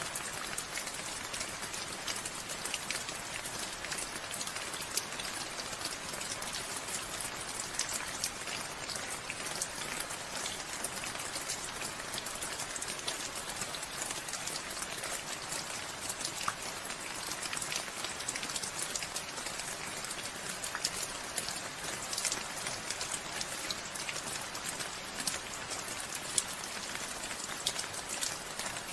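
Steady rain falling, with many individual drops ticking and pattering on surfaces close by.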